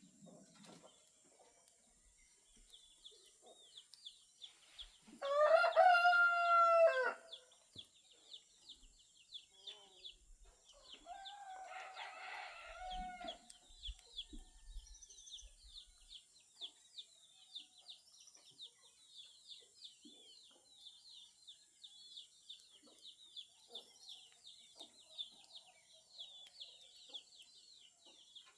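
A rooster crows loudly once, about two seconds long, around five seconds in, and a fainter second crow follows around twelve seconds in. Behind them runs constant rapid high chirping and a steady high-pitched drone.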